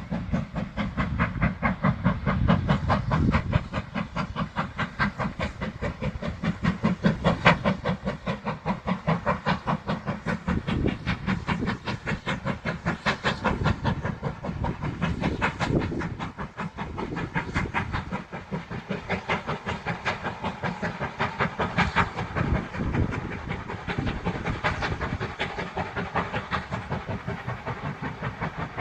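GWR 4110, a Large Prairie 2-6-2 tank engine, pulling away under steam with its exhaust beating in a steady, fast rhythm of several chuffs a second, over a constant hiss of steam.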